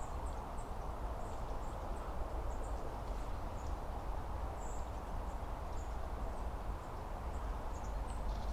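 Small birds giving short, high chirps on and off, several a second at times, over a steady low rushing background with a deep rumble.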